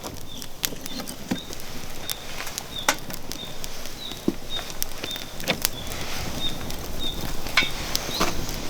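Wood fire crackling in a fire pit, with irregular sharp pops over a low hiss. A faint short high chirp repeats about once a second behind it.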